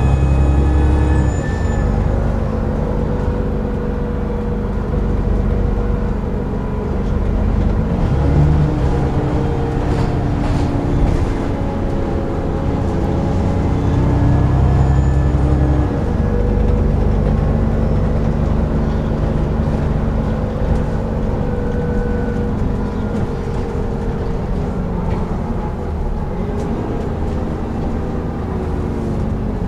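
Dennis Trident 2 / Alexander Enviro 400 double-decker bus running under load, its diesel engine note overlaid by the whining 'hoover' sound it is known for. The engine note steps up about eight seconds in and drops back about eight seconds later.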